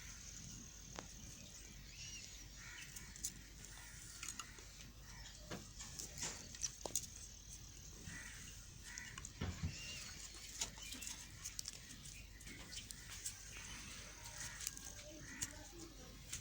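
Knife cutting into a bar of white soap: scattered crisp clicks and scraping cuts.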